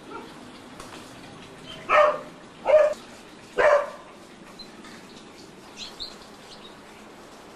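A Border Collie barks three times, each bark short and under a second apart. Faint canary chirps come after the barks.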